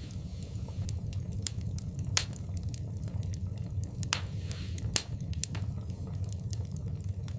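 Wood fire in a fireplace crackling, with irregular sharp pops over a steady low rumble. Two louder pops stand out, a little after two seconds and at about five seconds, and there is a short hiss just after four seconds.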